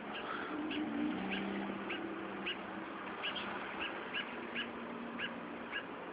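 A fledgling bird giving short, high chirps over and over, about two a second, with a low steady hum beneath.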